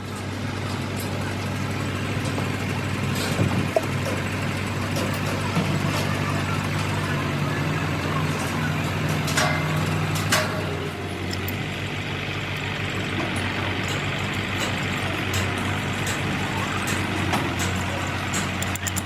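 A motor running steadily at a constant low hum, with scattered light clicks and knocks over it.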